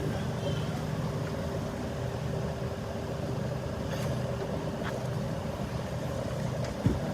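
Steady low hum of vehicle engines idling, with a short thump near the end.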